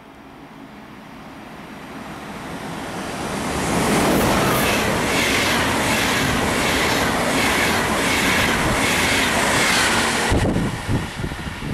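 ÖBB Railjet passenger train passing along the platform at speed. A rush swells as it approaches, then holds as a steady loud rumble with a rhythmic clatter of wheels on the rails, about two beats a second. About ten seconds in, the train noise drops away suddenly as the end of the train passes, leaving low, gusty buffeting.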